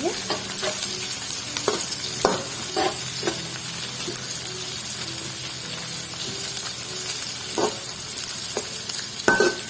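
Galangal stems sizzling in hot oil in a pan as they are stir-fried, with the stirring utensil knocking and scraping against the pan now and then. The loudest knocks come near the end.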